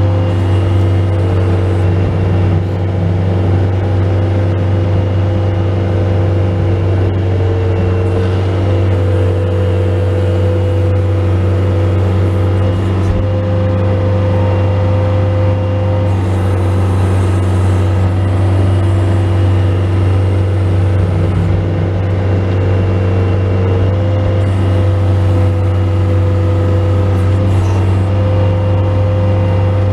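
Bobcat S185 skid steer loader's diesel engine running steadily under work. A higher whine above the engine hum shifts pitch slightly now and then.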